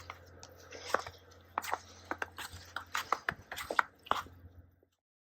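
Footsteps crunching in fresh snow, a sharp crunch about twice a second over a low steady hum.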